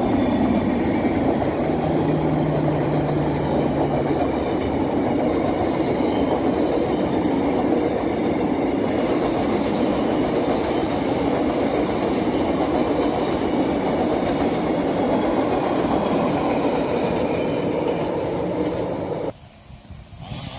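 Passenger train rolling past close by, its wheels rumbling and clattering steadily on the rails. It cuts off abruptly near the end.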